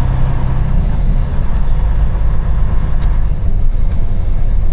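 Semi-truck's diesel engine running steadily, heard from inside the cab as a low drone.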